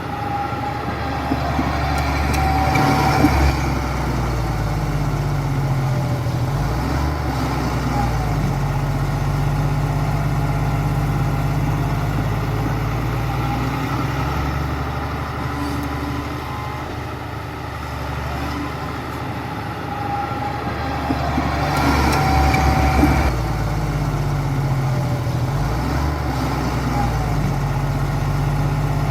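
Heavy diesel earthmoving machine running steadily under load, its engine note shifting as it works. It gets louder twice, once near the start and once about two-thirds of the way through, with short high metallic squeals.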